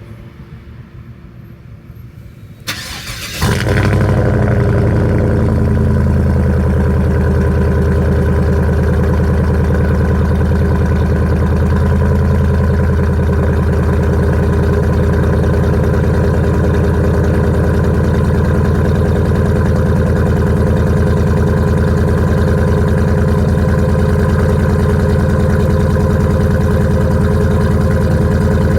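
Chevy 5.3 V8 with a Carven competition exhaust on a cold start: it cranks briefly about three seconds in, fires, and settles into a loud, steady idle.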